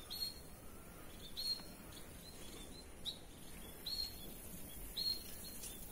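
A bird calling over and over in short high chirps, about one or two a second, against faint outdoor background noise.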